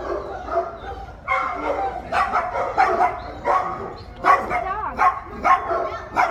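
Dogs barking repeatedly, short barks coming about every half second from just over a second in, with a higher yelping call among them.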